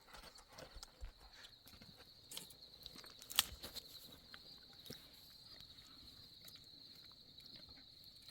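Steady high-pitched chirring of insects, with scattered light taps and clicks and one sharper click about three seconds in.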